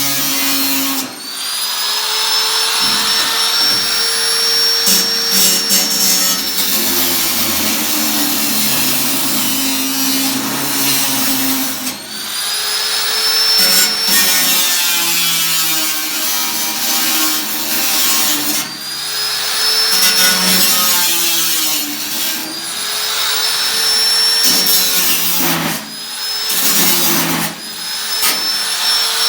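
Electric power tool run in several bursts, its motor whine rising as it spins up and then holding steady under load, used on the sheet metal of an 18-litre tin can.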